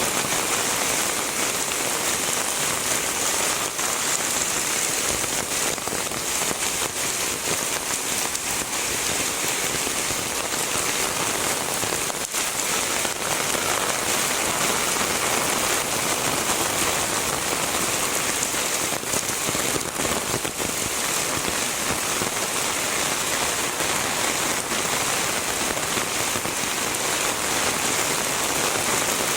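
Heavy rain falling steadily, a dense even hiss with many separate drops striking hard surfaces.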